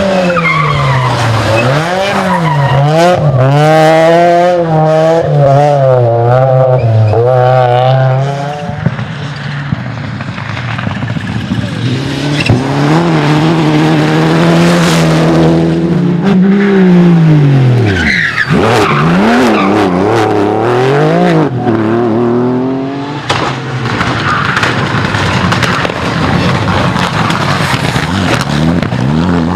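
Rally car engines revving hard, the pitch climbing and dropping again and again through gear changes and braking, with tyre squeal.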